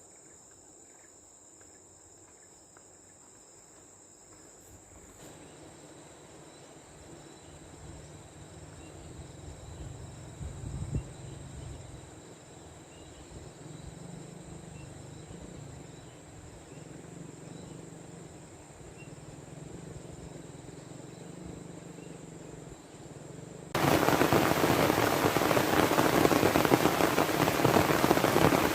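Insects chirping steadily in a high continuous chorus, with a low steady rushing that comes in about five seconds in and slowly grows louder. About 24 seconds in, heavy rain comes in suddenly and loudly.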